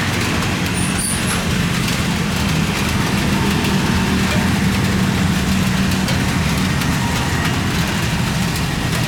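Steady low engine rumble with a droning hum through the middle, over a constant hiss.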